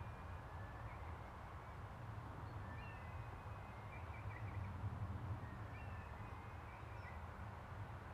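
A bird singing faint whistled phrases, each with slurred notes and a short trill, repeated about every three seconds over a steady low rumble of background noise.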